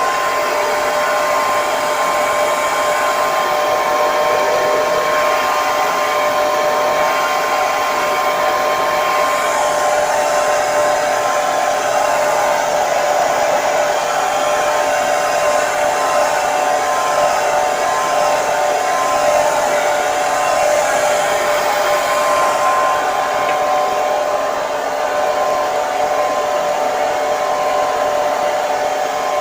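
Hair dryer running steadily: a constant airy rush with a steady motor whine.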